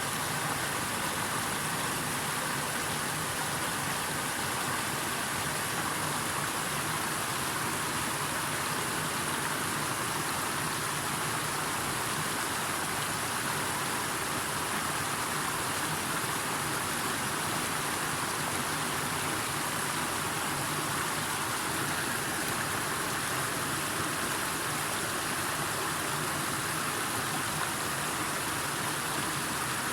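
Flowing water rushing steadily, an even unbroken noise.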